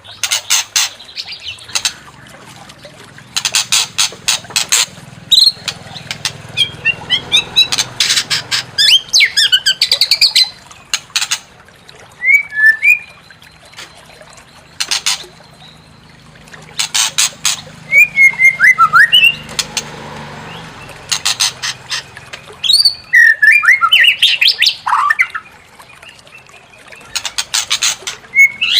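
White-rumped shama (murai batu) song in an agitated, provoking style: bursts of rapid harsh clicking rattles alternating with short whistled glides, repeating throughout.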